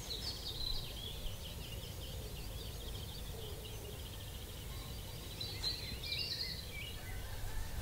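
Small birds chirping and singing in short, quick calls over a low, steady background rumble. The calls are busiest just after the start and again about two-thirds of the way through.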